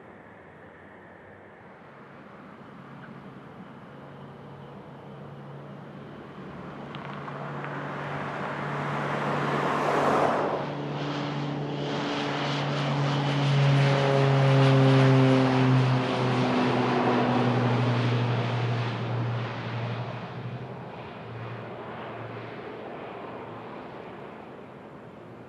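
Airplane passing close by on the runway, its engine noise building to a peak about halfway through, with tones that slide down in pitch as it goes past, then fading.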